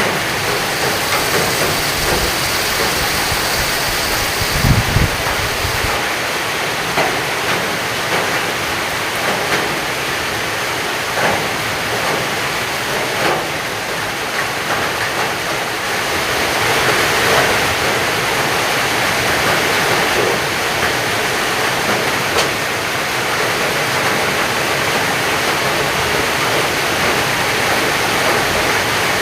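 Heavy rain pouring steadily, with scattered sharper drip or tap sounds and a brief low thump about five seconds in.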